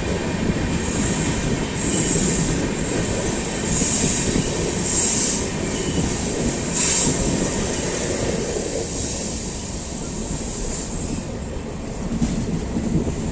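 Passenger train running on the rails: a steady rumble of wheels and carriages, with several short, high-pitched wheel squeals in the first half.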